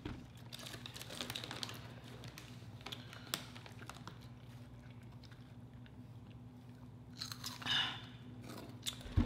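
People chewing and crunching tortilla-chip nachos close to the microphone: faint, scattered crunches and mouth sounds, with a sharper crunch about three seconds in and a louder burst near the end, over a faint steady low hum.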